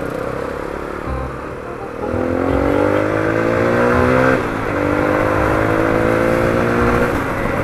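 Kawasaki KLX dual-sport motorcycle's single-cylinder four-stroke engine accelerating away. Its pitch rises through one gear, drops at a gear change a little over four seconds in, then climbs again in the next gear before easing off near the end.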